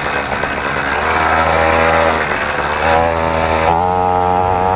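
Small engine of a motorized BMX bike, breathing through a homemade little muffler, revving up and down as it is ridden: the pitch climbs about a second in, drops back, then rises again and holds high near the end.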